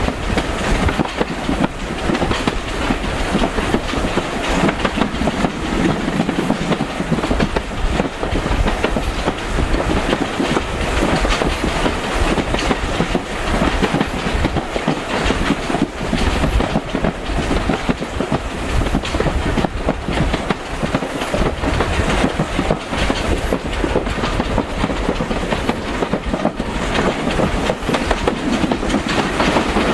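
Heritage railway carriage running along the line: a steady rumble with the wheels clattering and clicking over the track.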